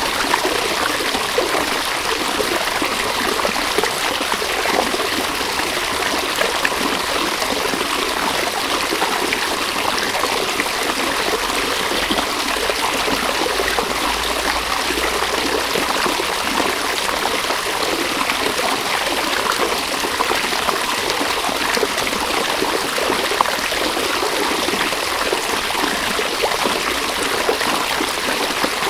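River water flowing steadily over stones, a continuous rushing with fine babbling and trickling.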